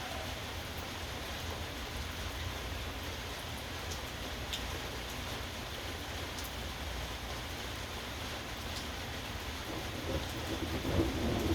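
Steady rain falling, with a few sharp drips landing close by. A low rumble swells near the end.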